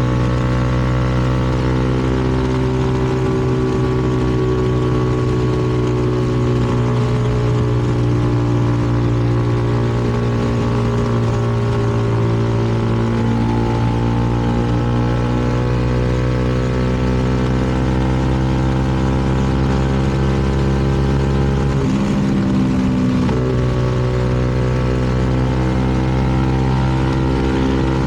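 CFMoto 300NK single-cylinder motorcycle engine running at a steady cruise, heard from the rider's position. Its note sags slightly early on, then holds, with a brief dip and recovery about six seconds before the end.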